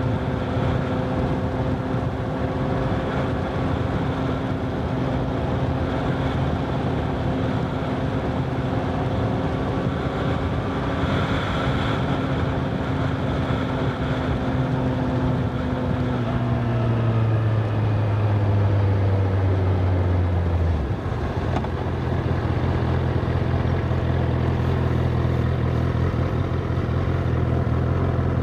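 Honda CBR1000RR SP inline-four engine running steadily under wind rush. About sixteen seconds in its note falls as the bike slows, and from about twenty-one seconds it holds a lower steady note.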